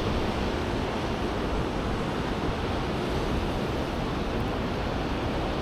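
Steady wash of city street traffic noise with a low rumble, mixed with wind on the microphone.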